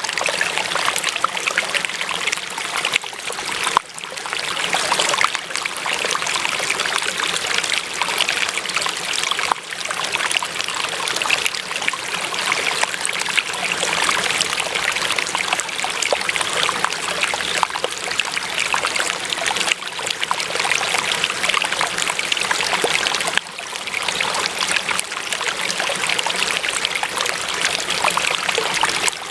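Water running and trickling steadily, a small stream or brook flowing over stones, with a busy splashing texture and a couple of brief dips in level.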